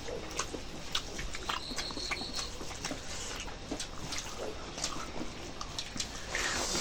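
Close-up eating sounds of rice and chicken curry: chewing, lip smacking and many small wet mouth clicks, with a louder wet slurp-like sound near the end.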